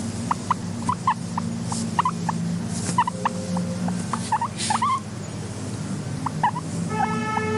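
Guinea pig squeaks: short chirps, several a second, over a steady low rumble, with a longer held squeal near the end.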